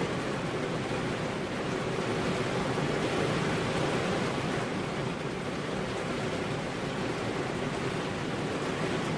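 Steady rain falling hard: an even, continuous rushing hiss with no thunder. It swells slightly a few seconds in.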